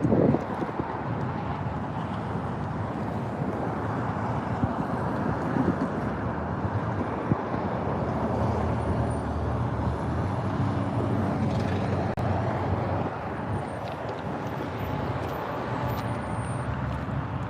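Steady rumble of passing road traffic, with a brief thump at the very start.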